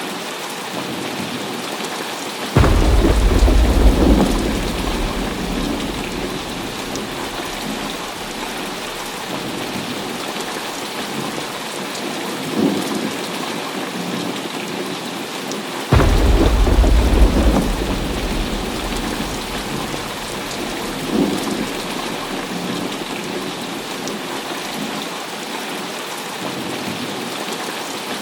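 Heavy rain falling steadily, with two sudden thunderclaps, one a few seconds in and one just past the middle, each followed by a deep rumble that dies away over several seconds.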